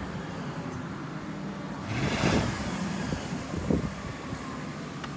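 Car engine idling steadily, with a brief rev about two seconds in.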